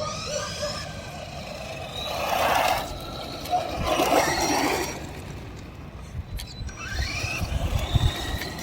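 Electric RC cars driving, their motors whining and rising in pitch as they accelerate. Two louder stretches of tyre noise come about two and four seconds in.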